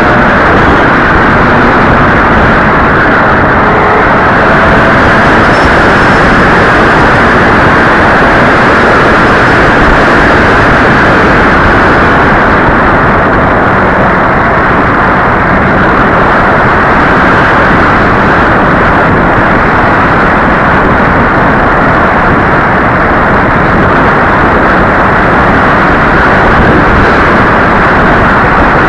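Loud, steady rushing noise of air blowing over the microphone, with no clear engine note standing out.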